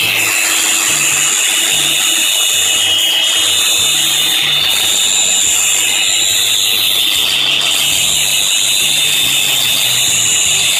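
Angle grinder fitted with a homemade attachment, running steadily with a high whine.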